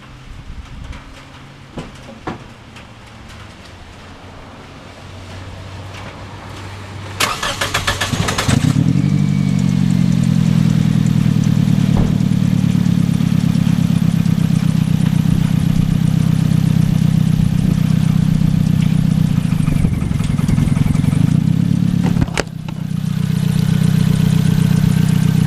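2007 Toyota Yaris's 1.5 L 1NZ-FE four-cylinder engine cranked by the starter about seven seconds in, catching within a second or so and then idling steadily, with a sharp click and a brief drop in level near the end. The engine is being checked for a misfire on cylinder 3.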